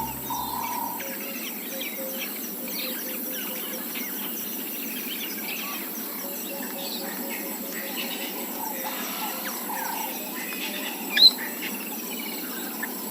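Bush ambience: many birds chirping and insects calling steadily, with one sharp, loud bird call about eleven seconds in.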